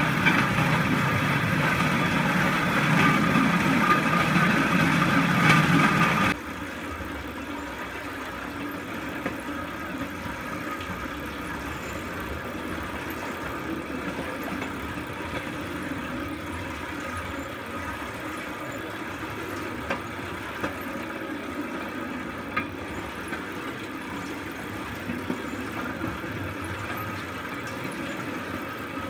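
Steel wheels of a pedal-powered rail bike rolling along railroad track, a steady rumble with a ringing hum. About six seconds in it drops suddenly to a quieter rolling rumble with a few light clicks.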